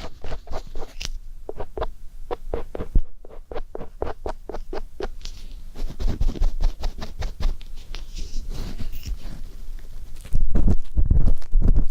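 Ear pick scraping and tapping inside the ear of a binaural microphone: quick scratchy clicks, several a second. From about ten seconds in, a louder low rubbing rumble takes over.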